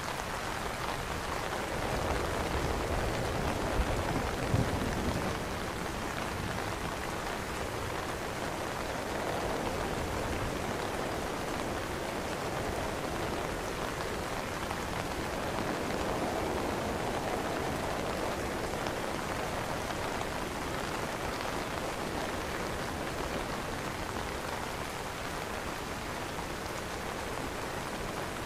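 Rain falling steadily on an umbrella canopy, an even hiss of drops, with two short low thumps about four seconds in.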